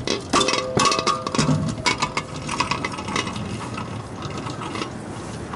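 Quick rattling, clicking and knocking with brief metallic ringing as a failed refrigeration compressor is lowered off a roof on a rope, busiest and loudest in the first two seconds and thinning out after.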